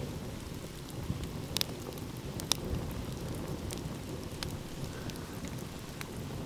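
Wood fire crackling, with a few sharp pops standing out against a steady low rush of ocean waves.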